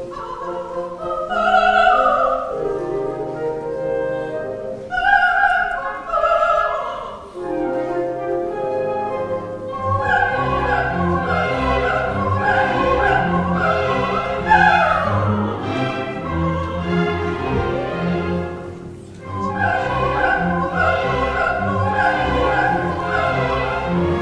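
Coloratura soprano singing a wordless vocalise with orchestra: held notes at first, then fast runs of short notes, with a quick downward scale about two-thirds of the way through and a rising scale at the very end.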